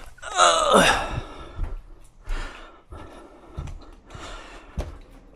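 A man's drawn-out groan or sigh, falling in pitch, about half a second in, followed by several short scraping, breathy noises and a sharp tap near the end.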